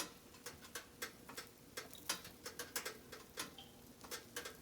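Pancakes cooking on a griddle: irregular crackling ticks and pops, several a second, with a faint steady hum beneath.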